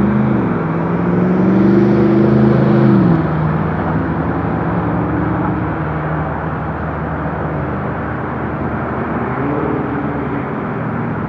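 Car engine and tyre road noise on a highway. The engine pitch climbs for about three seconds, then drops abruptly as the car shifts up, and the engine hums steadily after that.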